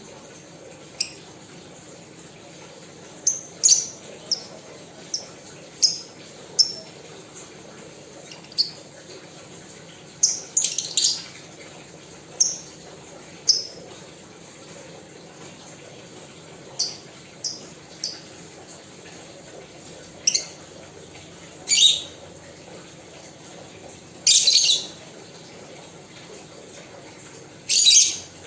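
Caged pet birds giving short, sharp, high-pitched chirps at irregular intervals. Some come singly and some in quick clusters of two or three, roughly every one to two seconds.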